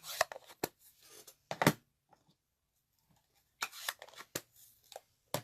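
Paper and stamping supplies being handled on a craft table: several sharp taps and short paper rustles, with a quiet pause of about a second and a half in the middle.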